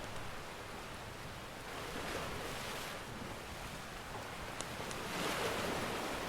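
Ocean surf washing in steadily, with waves swelling up about two seconds in and again near the end. A couple of faint fire crackles pop over it just before the second swell.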